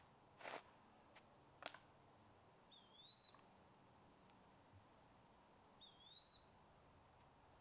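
Quiet outdoor ambience with a bird repeating a short whistle that dips and then rises, about every three seconds, three times. Two faint sharp clicks come in the first two seconds.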